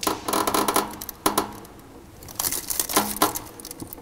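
Clicking and light clinking handling sounds at a fireplace insert as the fire is lit, in three short clusters.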